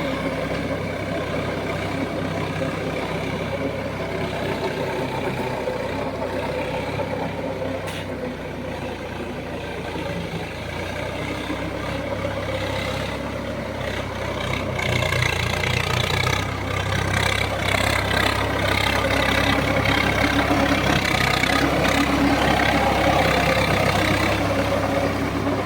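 Swaraj 855 FE tractor's three-cylinder diesel engine running steadily, growing louder about fifteen seconds in.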